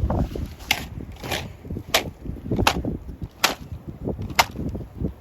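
Nerf blaster firing six sharp snapping shots, one every second or less.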